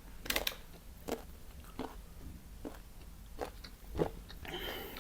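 Close-miked eating of spicy rice paper laphing: soft, wet mouth and chewing clicks about once a second, with a longer rustling sound near the end.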